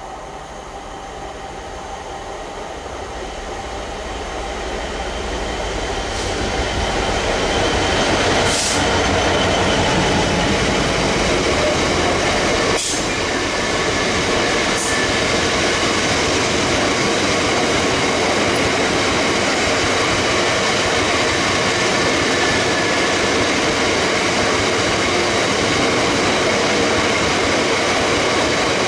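A train approaching, growing louder over the first eight seconds or so, then running past steadily with the rumble of wheels on rails. Three sharp clicks stand out in the middle.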